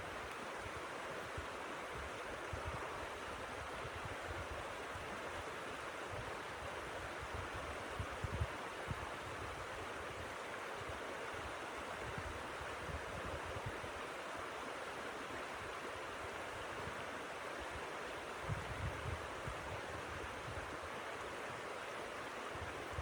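Steady rush of blizzard wind, with low gusts buffeting the microphone around eight seconds in and again near the end.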